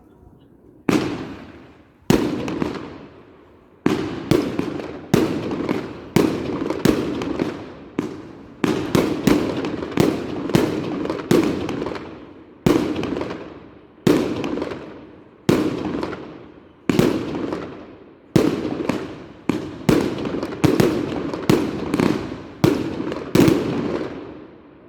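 Aerial fireworks going off in a long, irregular series of sharp bangs, one every half second to a second and a half, each with an echoing tail. The bangs begin about a second in.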